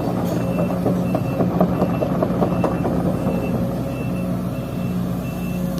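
Sumitomo excavator's diesel engine running, with its travel alarm giving a high beep about every 0.7 seconds and scattered clanks of metal on the machine.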